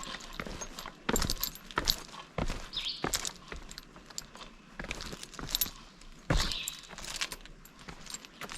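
Footsteps on a rocky trail, with irregular clicks, scuffs and a light jingling of gear, several per second.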